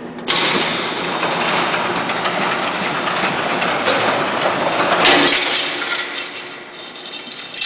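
Electric garage door operator motor running and driving the door mechanism, a loud rattling mechanical noise that starts suddenly. About five seconds in there is a brief louder clatter, and then the noise dies down.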